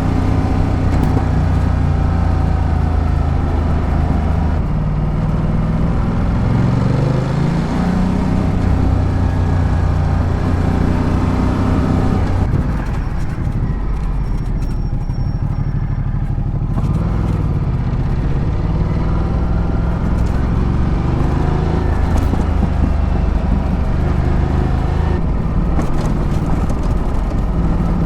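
Ducati Multistrada 1200's L-twin engine running under way, its pitch rising and falling as the throttle and speed change. Roughly halfway through it drops to a quieter, lower note for a few seconds before pulling up again.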